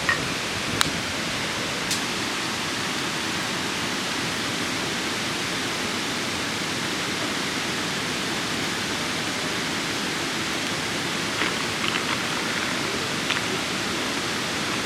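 Steady rushing noise, like rain or flowing water, with a few short sharp crackles about a second in, near two seconds in, and a cluster near the end.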